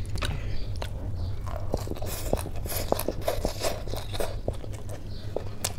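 Close-up mukbang eating sounds: a mouthful being chewed, with many short crisp crunches and wet mouth clicks in quick succession.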